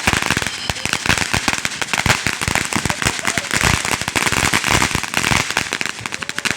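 A string of firecrackers going off: a rapid, dense chatter of sharp cracks, many to the second, thinning out near the end.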